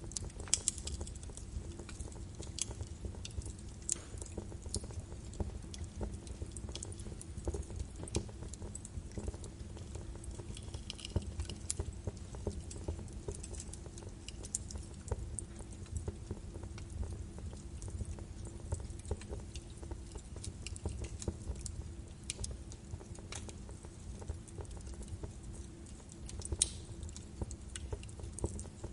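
Birch wood fire burning in a fireplace, crackling with irregular sharp pops and snaps over a low steady rumble of the flames.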